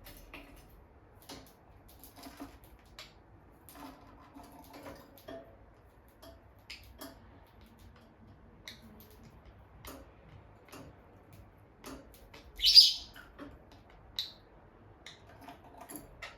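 Peach-faced lovebirds moving about with faint scattered clicks and ticks, then one loud, sharp, high chirp about three-quarters of the way through, followed by a shorter, softer chirp.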